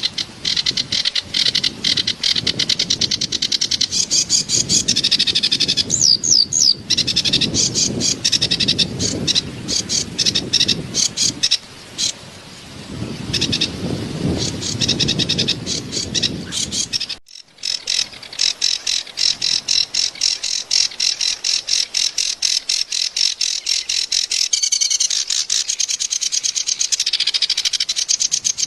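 Kerak basi (a reed warbler) singing a long, harsh, chattering song of rapidly repeated notes. Running water flows underneath through the first half. The recording briefly cuts out about 17 seconds in.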